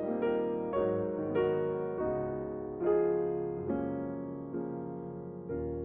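Background music: a piano interlude between sung lines of a Christmas song, about eight slow chords, each struck and left to fade before the next.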